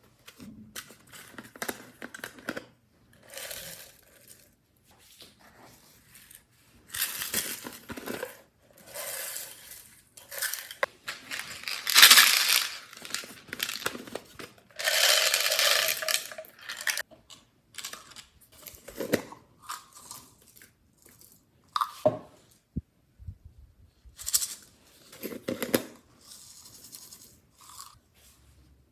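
Hands squishing and stretching slime mixed with makeup and glitter, in irregular crackling, squelching bursts of a second or two.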